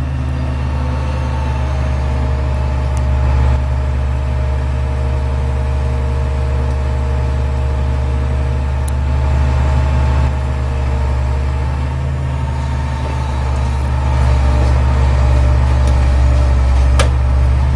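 A large vehicle engine running steadily at an even, low pitch, with a few faint clicks.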